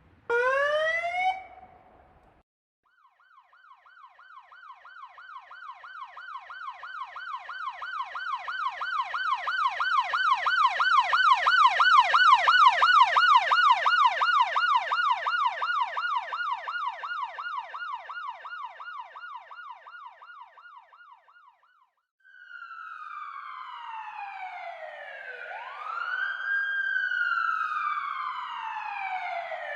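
Police sirens in a series of separate recordings. First comes a short rising whoop. Then a rapid warbling yelp grows louder and fades away over about eighteen seconds, and from about 22 s a slower wail with long falling and rising sweeps follows.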